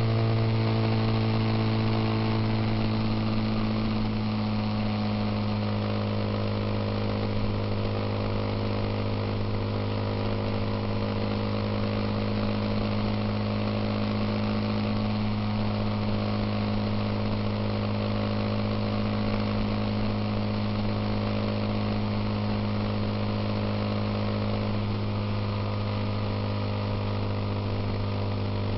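Suzuki Intruder motorcycle engine running at a steady, even pitch, settling slightly lower in the first few seconds.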